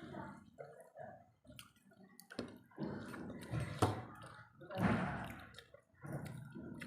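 Wet, squishy eating sounds of a meal of rice and fish curry, with scattered small clicks and ticks; the loudest comes just before five seconds in.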